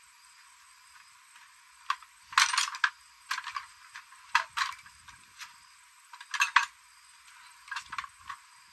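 Irregular metallic clinks and clicks of small metal parts and tools being handled, with two louder clattering clusters, one about two and a half seconds in and one about six and a half seconds in.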